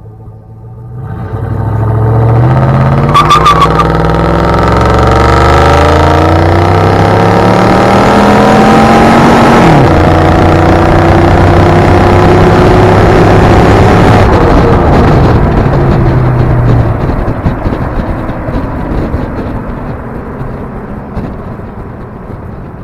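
5.7 HEMI V8 with stock exhaust on a 2003 Ram 2500 pickup, accelerating hard from low speed. Its pitch climbs for about eight seconds, then drops sharply at an upshift, pulls again, and eases off and fades out. A short beep sounds about three seconds in.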